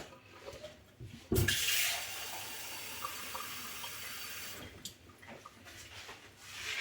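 Kitchen tap turned on with a knock about a second in; water runs steadily for about three seconds, then stops.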